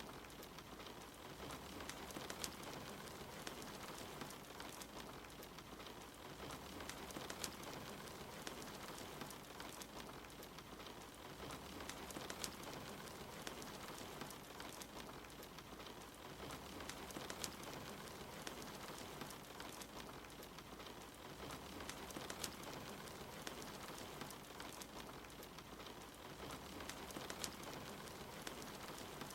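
Steady rain with the scattered pops and crackles of a wood fire, heard as a continuous ambience.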